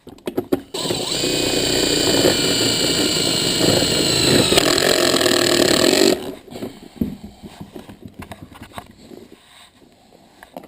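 Handheld power tool motor running at speed for about five seconds, with a steady high whine and a grinding, working noise, then cutting off suddenly.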